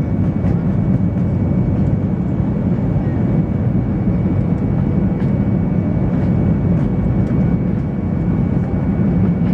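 Steady drone of an Airbus A320's jet engines and rushing air, heard inside the cabin on final approach, with a faint steady high whine over the low rumble.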